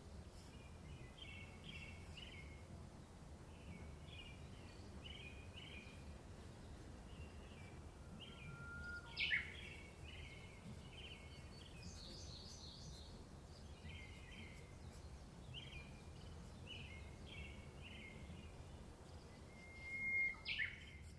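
Small birds chirping in short repeated clusters, with a louder sharp falling call about nine seconds in and again near the end, over a steady low background hum.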